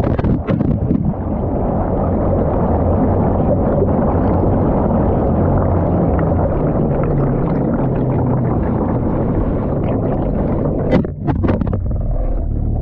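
Water sloshing and churning in a washing machine drum, heard from a camera tumbling inside it, with a few knocks about eleven seconds in.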